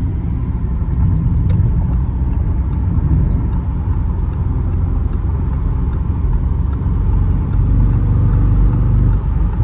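Audi RS7 Performance's twin-turbo V8 exhaust giving a low, steady rumble while cruising, heard from inside the cabin with the windows up. It is mixed with road noise and swells slightly about a second in and again near the end.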